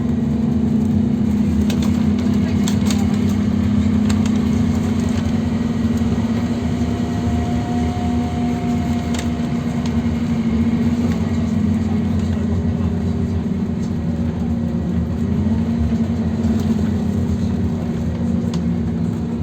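Scania OmniLink CK270UB city bus running along with a steady engine drone and road noise. The engine note drops a little near the end.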